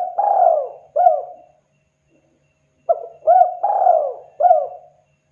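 Spotted dove (tekukur) cooing: two phrases of about four coos each, the third coo in each drawn out longest, with a pause of about a second and a half between phrases.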